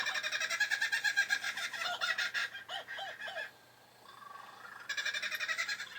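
A bird giving the laughing call of a kookaburra: a fast rolling run of chuckling notes that breaks off about three and a half seconds in and starts again near the end.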